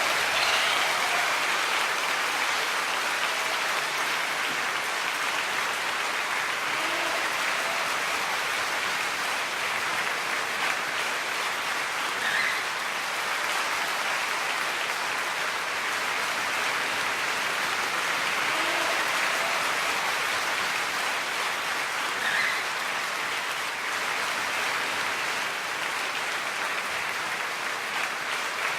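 Dense, even chatter of a large flock of birds calling all at once, blending into a steady hiss, with a few single calls standing out now and then.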